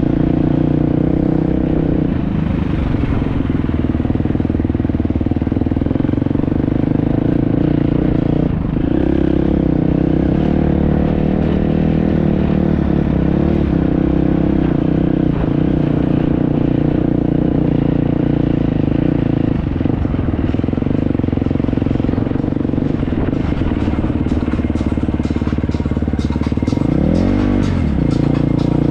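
Enduro motorcycle engine running at fairly steady revs, heard from on board with rattling and clatter. Near the end it is revved up and down twice.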